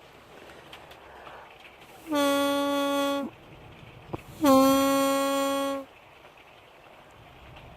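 Two long, steady, buzzing horn-like blasts from a novelty joke noise-maker, each just over a second long, the second following about a second after the first. Each blast bends up slightly at the start, then holds one pitch.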